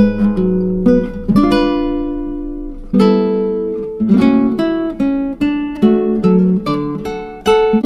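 Background music: acoustic guitar plucked and strummed in a gentle chord pattern, notes ringing out and fading between strikes.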